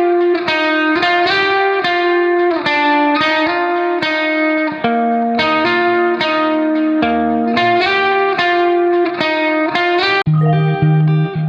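Background music: a plucked guitar playing a melody of separate ringing notes, with lower bass notes coming in near the end.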